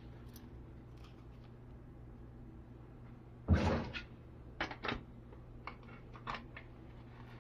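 Plastic toy kitchen pieces being handled: one loud clatter about halfway through, then a few lighter clicks and knocks, over a steady low hum.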